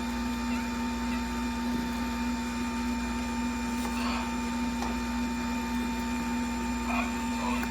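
Electric juicer motor running steadily with an even hum.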